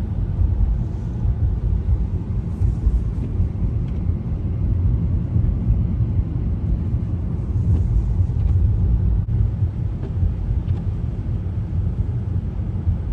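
Car driving along a snowy road: a steady low rumble of engine and tyres.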